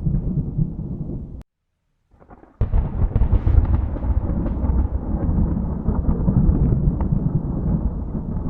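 Thunder rumbling, cut off suddenly about a second and a half in; after about a second of silence a new thunderclap cracks in and rolls on as a long rumble.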